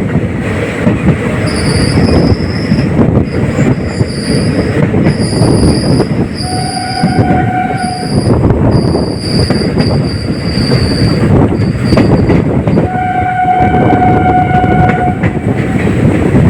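Indian Railways passenger express running, with a steady rumble from the coaches and a run of high-pitched wheel squeals. Two horn blasts, each a second or two long, come about six seconds in and again near the end.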